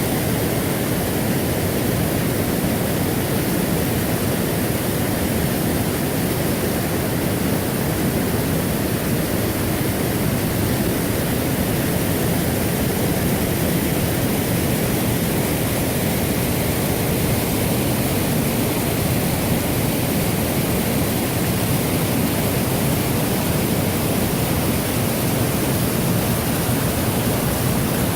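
Large waterfall rushing: a loud, steady wash of falling water that does not change.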